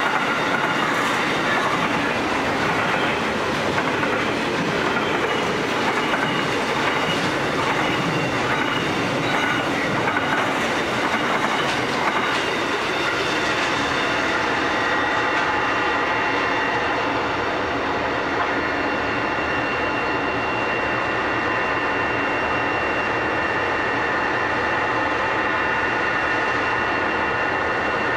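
Container wagons of a freight train rolling past close by, wheels clattering over the rail joints. About 14 seconds in the clatter eases and a steadier sound with a thin high tone remains as two SCT diesel locomotives creep up slowly on the loop line.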